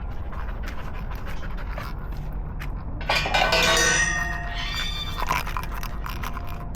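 A dog's short pitched cry about three seconds in, followed by a weaker one about two seconds later, over a steady street hum and light clicks.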